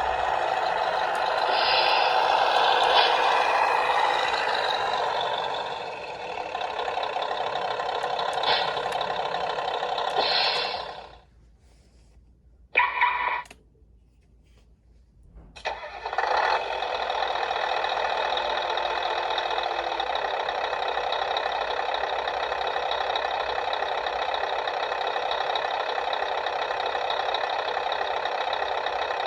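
Scania R730 engine sound played through the speaker of a Tamiya RC truck's sound unit. It runs, then shuts off about eleven seconds in, with a short burst of sound near thirteen seconds. It starts up again around sixteen seconds and settles into a steady idle.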